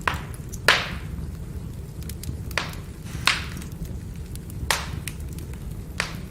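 Burning firewood crackling: about six sharp pops, the loudest just under a second in, and many small ticks over a low, steady rumble of flame.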